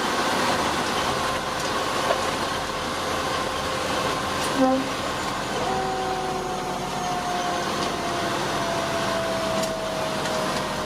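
Fire engine running, heard from inside: a steady rush of engine and road noise with a few light clicks. About halfway through, a faint steady tone enters and slowly falls in pitch.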